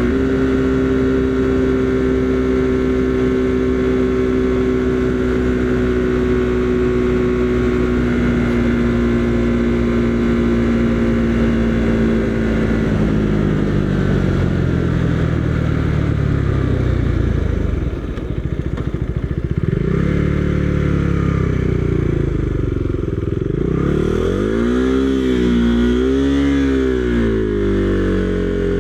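Husqvarna Svartpilen 401's single-cylinder engine running steadily at cruising speed. Partway through, its note falls as the bike slows. In the last third it rises and falls repeatedly with the throttle.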